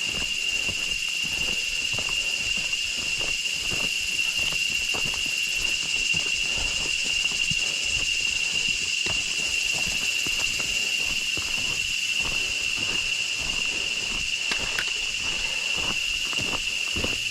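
Steady high-pitched insect drone, with irregular soft footsteps beneath it.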